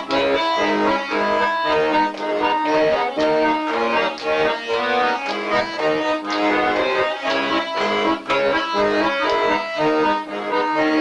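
Accordion playing an instrumental passage: a melody over sustained chords.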